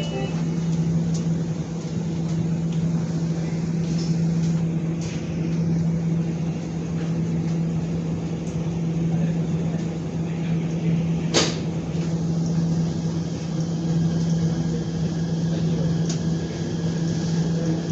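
Steady running noise inside a Namo Bharat RRTS train carriage: a constant low hum over an even rumble, with one sharp click about eleven seconds in and a faint high steady whine joining a little after.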